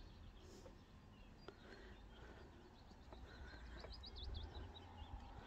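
Near silence with a faint low rumble, and a small bird singing one short, quick twittering phrase a little past halfway.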